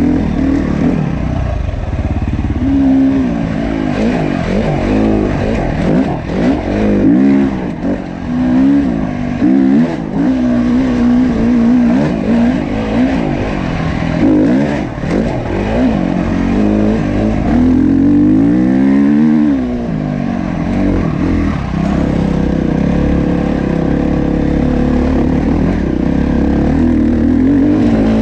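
Dirt bike engine running as it is ridden, its pitch climbing and dropping again and again with the throttle.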